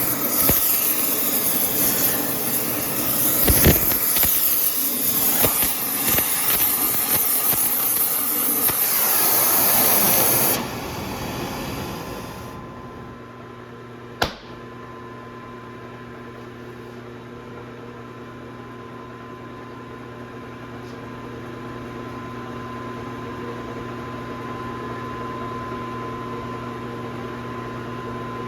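Welding arc hissing and crackling as weld is built up in the scored bearing bore of a wheel hub, cutting off about ten seconds in. After it a steady electrical hum, with one sharp click a few seconds later.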